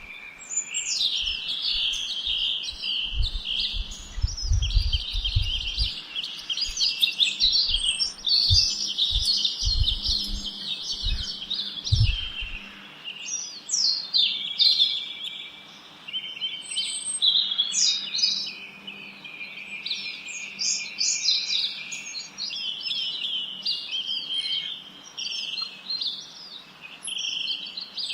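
Many small birds chirping and twittering at once, short high calls and trills overlapping without a break. Low thuds come and go through the first twelve seconds, then stop.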